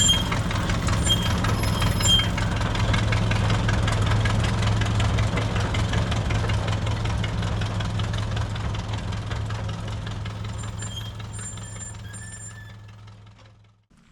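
Plymouth industrial locomotive's engine running steadily on a 2 ft gauge track, growing fainter over the second half and then cutting off near the end. There are a few faint high squeaks shortly before it stops.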